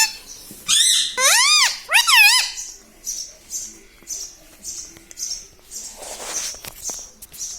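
Pet parrot calling: three or four loud squawks that rise and fall in pitch in the first couple of seconds, then a run of short, high chirps about twice a second. A brief scratchy rustle comes about six seconds in.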